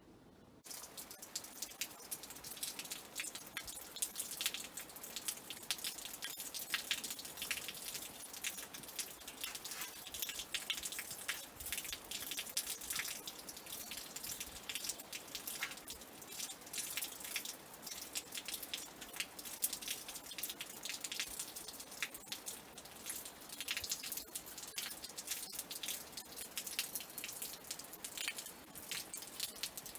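Rainfall: many small drops hitting in a dense, uneven patter, starting about half a second in.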